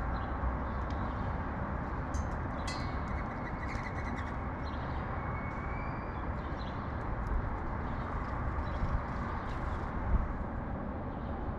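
Steady rumble of city traffic, with short high chirps of sparrows scattered over it a few times.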